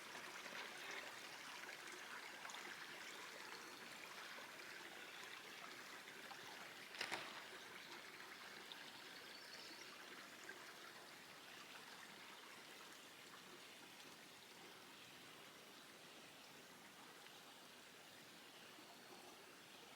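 Faint steady trickle of water at a lake shore, slowly fading, with one brief knock about seven seconds in.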